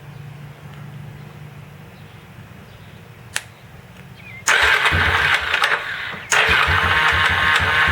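A Yamaha Wolverine 350 ATV's single-cylinder four-stroke engine starts up about halfway through, after a single click. It then runs with a rhythmic low pulsing and a knock that the owner believes comes from the bottom end and suspects is rod knock.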